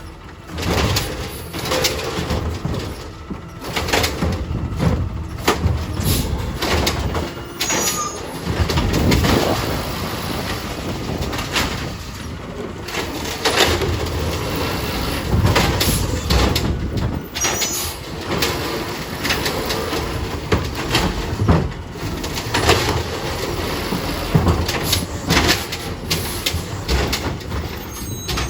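Garbage truck working at the curb: engine running under a busy stream of clanks, knocks and rattles.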